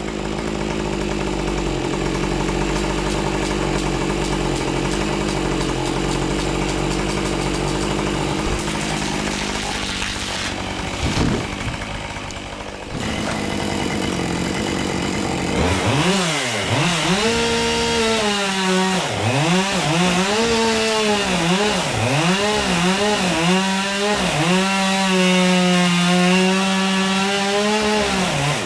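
Petrol chainsaw running at high revs and cutting wood, holding a steady pitch through the first half. After a short dip in the middle, the engine revs up and down over and over.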